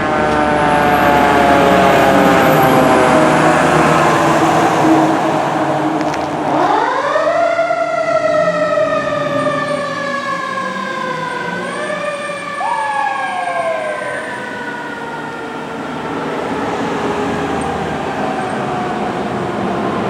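Fire truck siren: it falls slowly in pitch, winds sharply up again about six seconds in, then slowly falls away, with a brief second push near the twelve-second mark.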